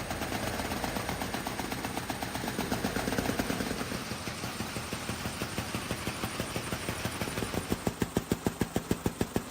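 Motor-driven flapping mechanism of a bird drone running with a rapid mechanical clatter. From about three-quarters of the way in it settles into louder, evenly spaced beats at about five a second.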